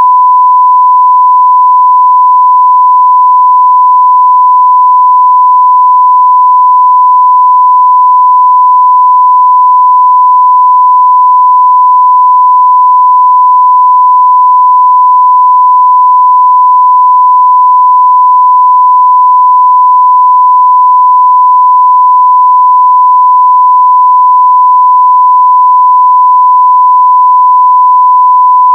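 Steady 1 kHz sine-wave test tone at full scale (0 dB), one unchanging pitch.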